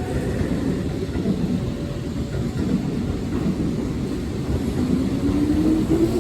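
Keihan 6000 series electric train pulling out, a low rumble of the cars with the motor whine rising steadily in pitch from about five seconds in as it picks up speed.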